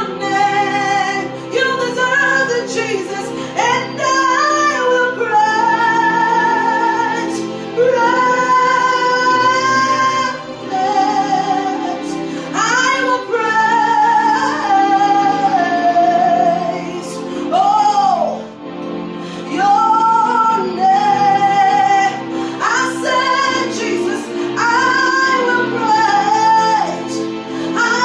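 A woman singing a slow worship song over steady instrumental accompaniment, holding long notes that bend and slide between phrases.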